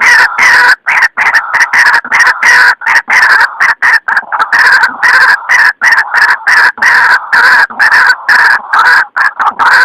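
White-breasted waterhen lure call: a loud, rapid run of repeated calls broken by brief gaps.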